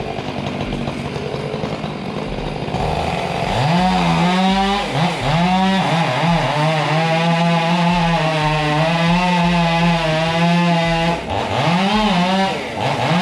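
Chainsaw cutting through a hollow, rotten maple trunk: it revs up about three and a half seconds in, runs steadily at full speed through the cut, drops off briefly around eleven seconds, then revs up again near the end.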